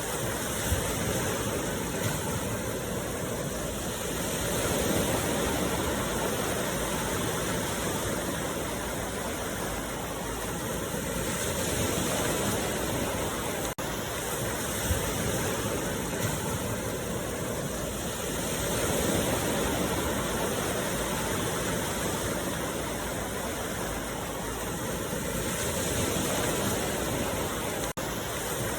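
Ocean surf breaking on a beach as a steady wash of noise that swells and eases about every seven seconds, with two very brief cut-outs.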